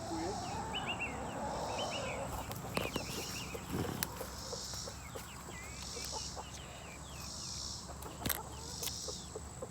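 Chickens clucking and chirping in short repeated calls, with a few light knocks and a faint pulsing sound repeating about once a second in the background.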